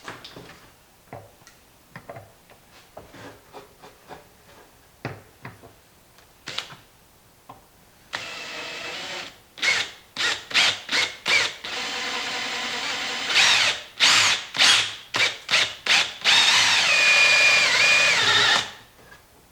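A few light clicks and taps of handling, then from about eight seconds in a power drill drilling out old rivets in a compost tumbler's lid ring. The drill runs in short trigger pulses and longer steady runs, and its pitch wavers in the last run before it stops.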